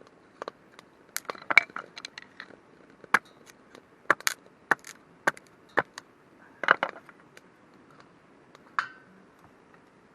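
Dry wood cracking and snapping at a campfire: irregular sharp cracks, some in quick crunchy clusters, over a faint steady hiss.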